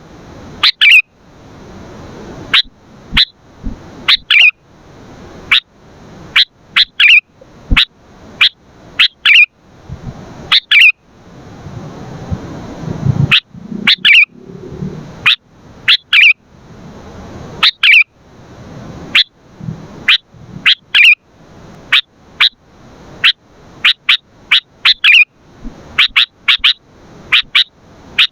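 Sooty-headed bulbul giving short, sharp, loud calls over and over, about one or two a second and often in quick pairs.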